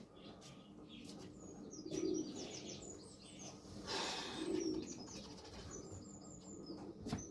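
Pigeons cooing, low soft coos about every two and a half seconds, with strings of high bird chirps around them. A brief rush of wing flapping about four seconds in.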